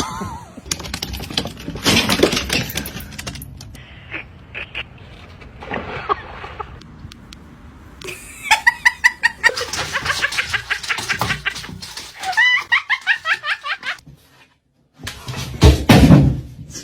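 People laughing in quick repeated bursts, with other short, unrelated sounds from neighbouring clips around it.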